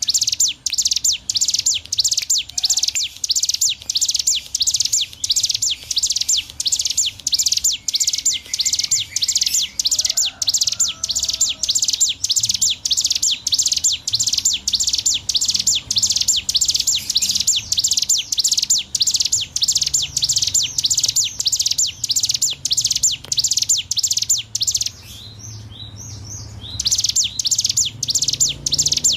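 Ciblek gunung singing a fast, unbroken 'ngebren' series of sharp high notes, several a second. The drilling song breaks off briefly about 25 seconds in, then resumes.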